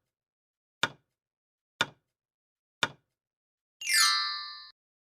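Quiz countdown timer sound effect: a sharp tick about once a second, three times, then a bright chime with a quick downward sweep about four seconds in that cuts off abruptly, marking the end of the time to answer.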